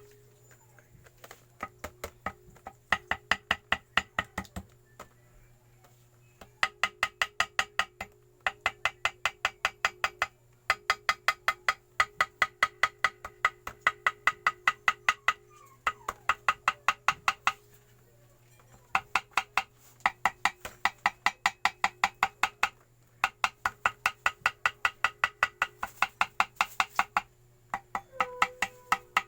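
Runs of quick, light hammer taps, about eight a second, each with a short metallic ring, broken by brief pauses. This is typical of tapping gasket paper against the edge of a motorcycle engine case to cut out a homemade gasket.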